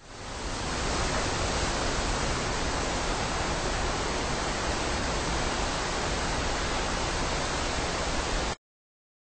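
A steady rushing hiss with no pitch or rhythm. It fades in over about half a second and cuts off abruptly about eight and a half seconds in.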